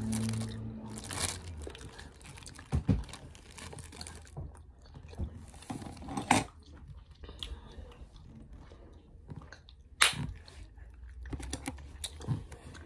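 Close-up chewing and crunching of a fruit roll-up with ice cream, hardened and crunchy, with scattered sharp clicks and crackles, the loudest near 3, 6 and 10 seconds in.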